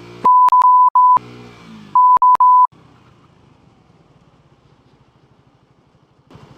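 Two bursts of a steady censor bleep tone, each broken by brief gaps. The first is about a second long and the second shorter, laid over the sound of a vehicle engine running. After the bleeps a quieter, pulsing engine rumble goes on.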